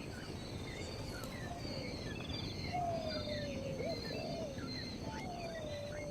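Birds calling over a background of insects: long low whistles that slide downward, one ending with a short upward flick, among short higher chirps and a steady high insect trill.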